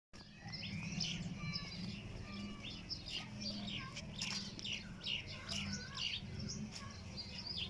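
Many small birds chirping and twittering at once in a dense, continuous chorus, over a low steady hum.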